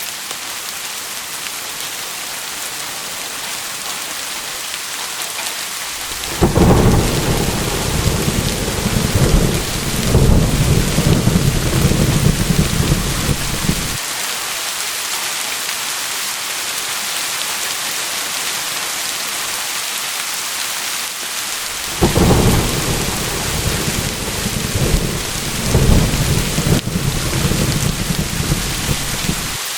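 Steady rain hissing, with two long rolls of thunder: the first rumbles in about six seconds in and stops fairly suddenly about eight seconds later, and the second rolls in about two-thirds of the way through and rumbles on until near the end.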